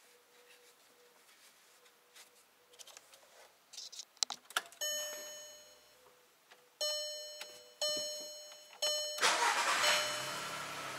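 A Seat's dashboard warning chime dings four times with the ignition on. Then the 1.6 MPI 102 hp four-cylinder petrol engine is started and settles into a steady idle, its first start after the oil change.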